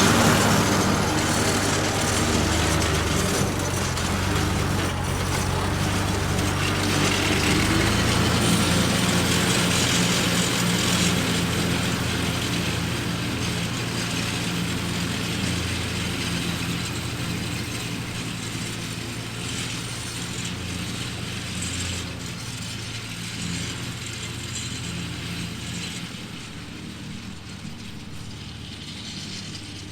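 Old Ford tractor engine running steadily while driving a finishing mower, fading as the tractor moves away.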